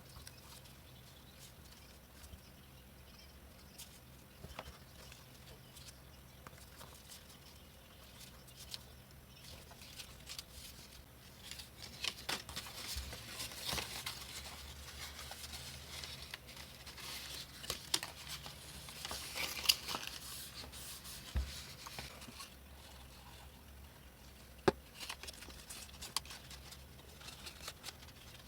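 Paper being worked by hand: sheets of coloured card rustling, scraping and being cut, with scattered small clicks and taps that are busiest in the middle and one sharp tap near the end.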